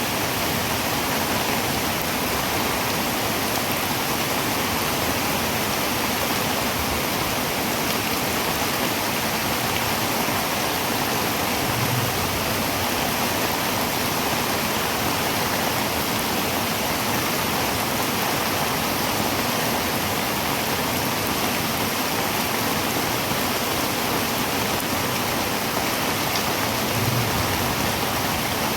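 Heavy rain falling on a tin roof: a steady, even hiss that doesn't let up.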